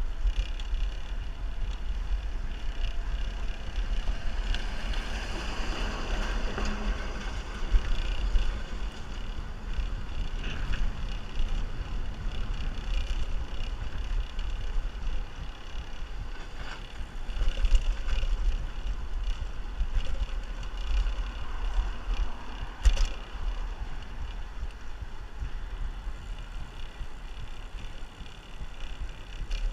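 Wind buffeting the microphone and rolling road noise while riding a bicycle, a steady low rumble with a wash of hiss above it. A single sharp knock comes about 23 seconds in.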